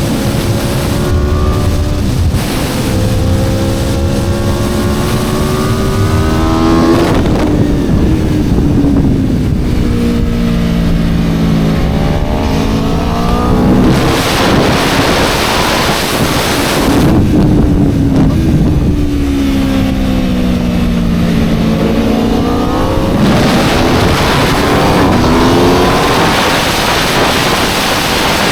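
Aprilia RSV4 superbike's V4 engine pulling hard, its note climbing in steps through gear changes, then falling away as it slows, with heavy wind rushing over the microphone at speed.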